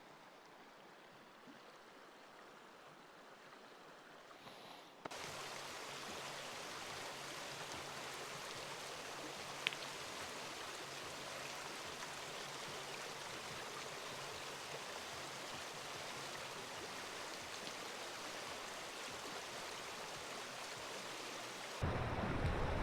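Steady rushing of a flowing river or stream, faint at first and then louder after a sudden jump about five seconds in. A single small click around ten seconds in, and a louder low rumble comes in near the end.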